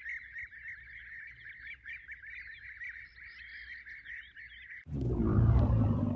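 A dense chorus of frogs calling, many short rapid chirps overlapping in a steady band. About five seconds in, a louder low rumbling noise cuts in over it.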